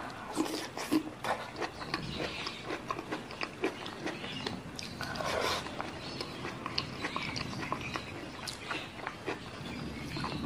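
Close-miked chewing of a mouthful of rice and chilli-sauced food, with irregular wet, sticky mouth clicks.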